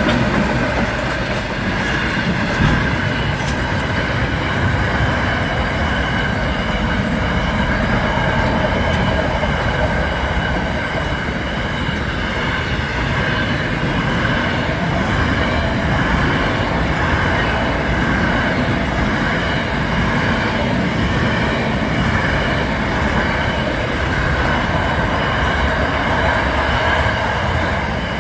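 A train running on rails, its wheels rolling over the track with a steady high-pitched whine above the rumble.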